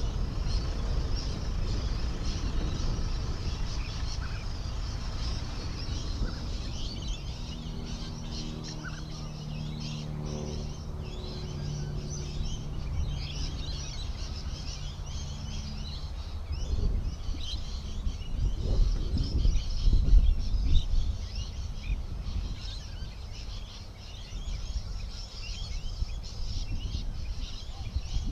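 Many small birds chirping and twittering continuously over a low rumble. A steady engine hum joins from about a quarter of the way in to past the middle, then drops out, and the rumble swells a little around two-thirds of the way through.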